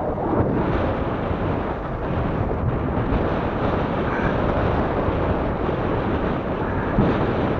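Wind buffeting the microphone of a camera riding along on a moving recumbent bicycle: a steady, dense rumble with no let-up.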